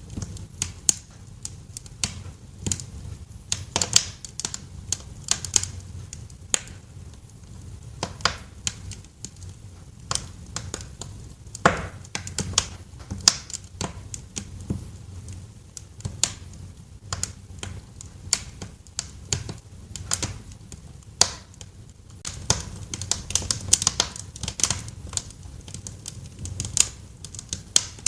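Wood fire crackling in a fireplace: irregular snaps and pops, some sharp and loud, over a low steady rumble of the burning.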